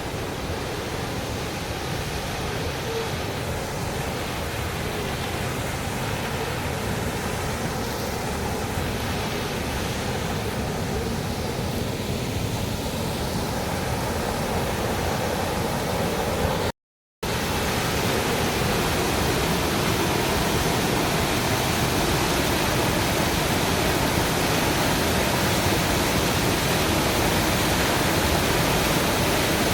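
Waterfall's water rushing steadily. It cuts out for a split second a little past halfway, then returns slightly louder and brighter.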